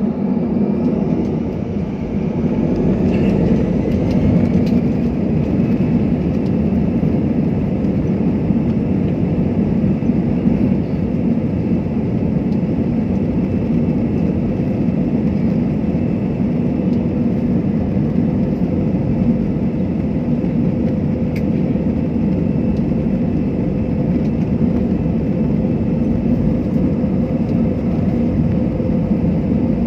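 Airliner's jet engines running at takeoff power: a loud, steady rumble, with a faint whine rising in pitch over the first few seconds as the engines spool up.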